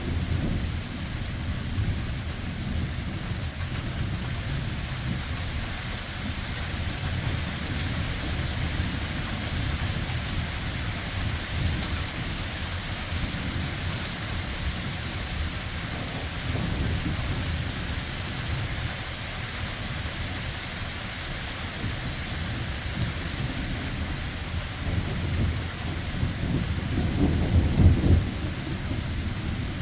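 Heavy rain falling steadily under thunder that rumbles on without a break, one continuous roar from lightning striking several times a second. The rumble swells now and then and is loudest near the end.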